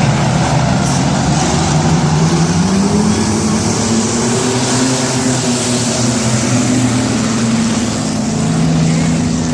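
Race truck engines running steadily, their pitch drifting slightly up and down.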